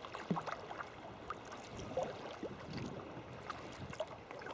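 Sea kayak under paddle: the blades dip and water splashes and gurgles against the hull in an irregular run of small splashes.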